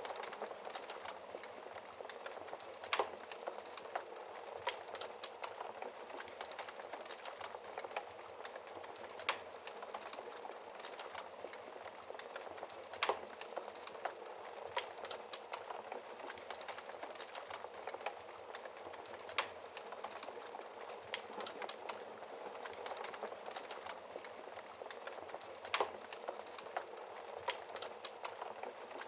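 Wood fire crackling: a steady hiss and rustle of burning, with irregular sharp pops and snaps scattered throughout, a few louder ones standing out.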